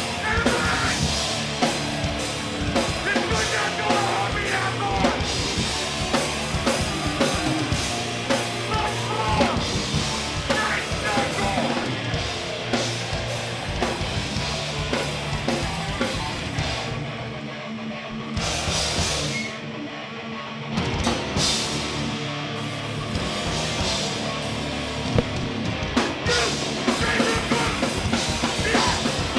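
Hardcore punk band playing live: distorted guitars, bass and a pounding drum kit. The sound thins out briefly about two-thirds of the way through, then comes back at full force.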